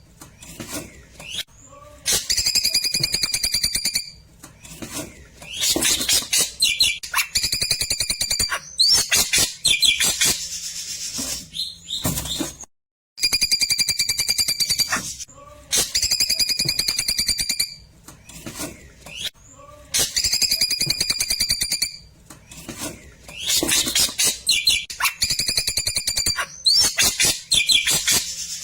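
Klewer songbird singing loud, high whistled notes and rapid sharp trills in repeated phrases of a few seconds each, with a brief gap about halfway through. This is the fast 'tembakan' style of song used as tutoring material for magpie-robins.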